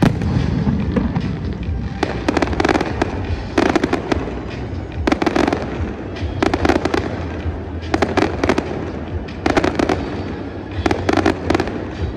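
Fireworks display: repeated clusters of rapid crackling pops, one cluster about every second and a half, over a steady low rumble.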